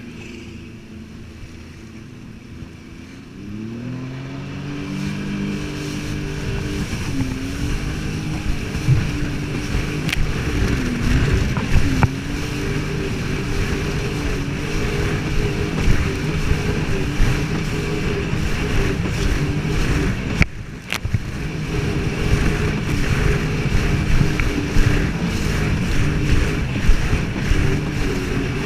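Jet ski engine at a low, quiet idle, then throttling up about three and a half seconds in, with the pitch rising, and running at speed under a steady rush of water and wind. The level dips briefly about twenty seconds in before the run carries on.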